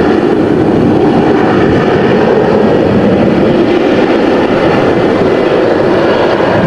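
Jet airliner engines running, a loud steady rushing noise that holds level throughout.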